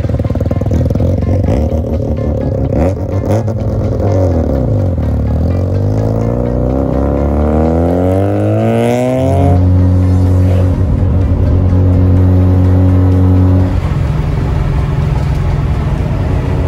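Mazda RX-7 FC's 13B rotary engine accelerating hard, its revs climbing steadily for about five seconds before cutting off. Background music with held chords plays alongside and carries on after.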